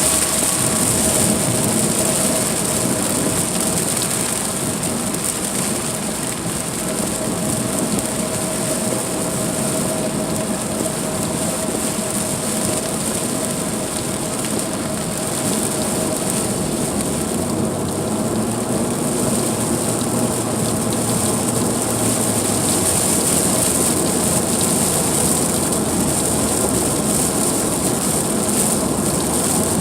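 Car driving in heavy rain: a steady mix of tyre and engine noise and rain striking the car.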